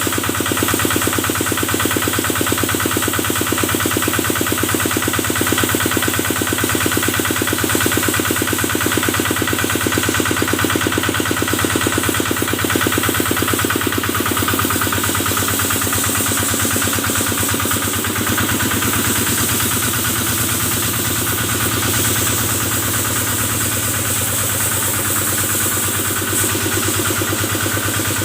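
Kubota engine driving a cattle-washing pump, running steadily with a fast, even chugging beat and a steady high hiss over it.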